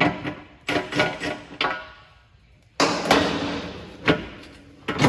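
Sharp metallic clanks and knocks, each with a short ring, as the bottom skid plate is worked loose and slid off its loosened bolts. Near the middle comes a longer scraping sound.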